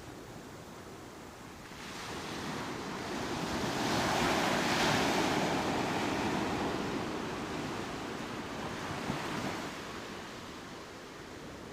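Ocean waves breaking on a beach: one wave swells up about two seconds in, crashes loudest around the middle, and washes out slowly.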